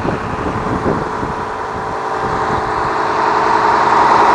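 Cummins ISC 8.3-litre six-cylinder diesel engine of a Blue Bird All American bus idling steadily with a constant whine over its hum, growing louder about three seconds in.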